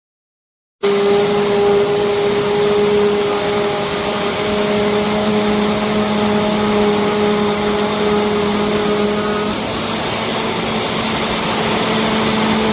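Bissell CleanView Compact upright vacuum (model 3508) running steadily, a loud whir with a constant whine on top. It starts abruptly about a second in.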